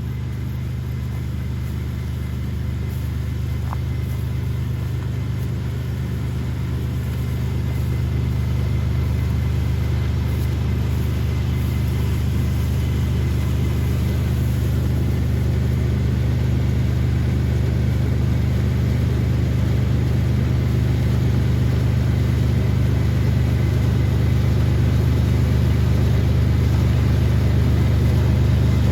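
Combine harvester running steadily: a deep, even engine hum that slowly grows a little louder.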